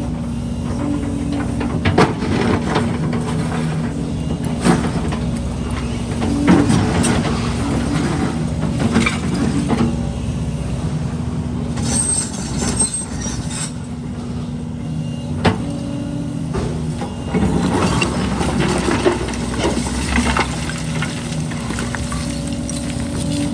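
Heavy diesel construction machinery, an excavator and dump trucks, running steadily, with scattered clanks of metal and rubble and a brief hiss of air about halfway through.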